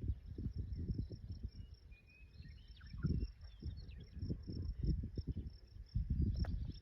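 Outdoor field ambience: insects buzzing steadily at a high pitch, with scattered short bird chirps, over irregular low rumbling gusts of wind on the microphone.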